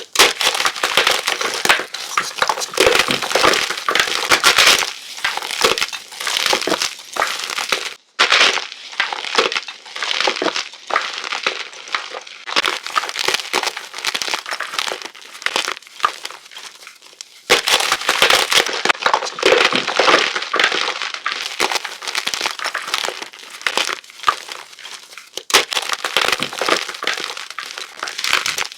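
A whole block of plain chalk being crushed: a dense run of dry crunching and crumbling crackles, with a brief break about eight seconds in.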